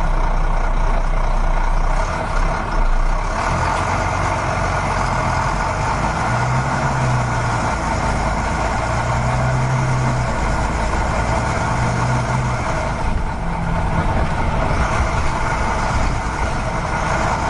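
A vehicle engine running steadily, with a low hum that swells and fades a few times.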